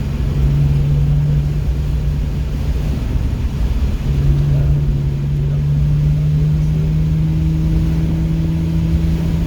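Car engine running under load, heard from inside the cabin over a heavy low road rumble. The engine note fades about two seconds in, comes back about four seconds in and then rises slowly as the car accelerates.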